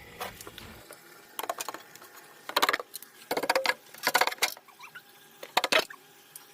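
Refrigerator shelves and racks being pulled out and handled: several short bursts of clattering and scraping, a second or so apart.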